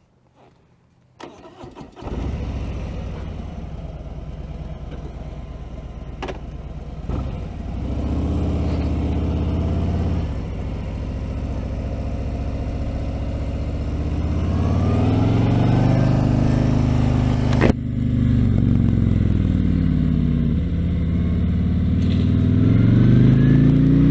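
Harley-Davidson Electra Glide's Milwaukee-Eight 107 V-twin engine cranked by the starter about a second in. It catches and runs, then the revs rise and fall several times as the motorcycle pulls away and gets under way. There is a sharp click about three-quarters of the way through.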